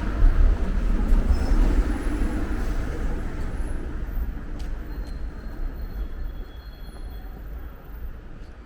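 A heavy vehicle rumbling past in the street, loudest in the first seconds and then fading steadily as it moves away.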